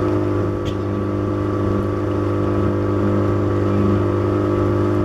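A boat's engine running at a steady speed: a constant, even drone with no change in pitch.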